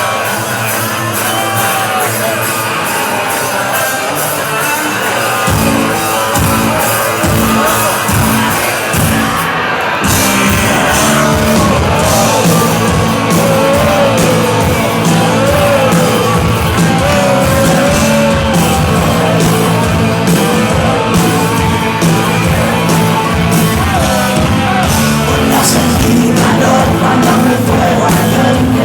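A rock band playing amplified live music in a hall. The bass and drums come in about five seconds in, and a voice sings over the band from about ten seconds.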